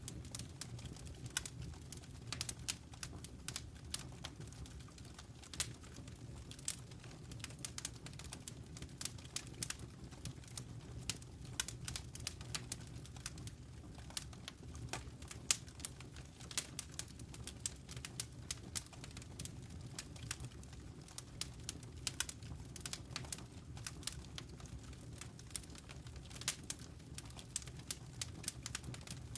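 Wood fire crackling in a fireplace: irregular sharp pops and snaps, several a second, over a steady low background noise.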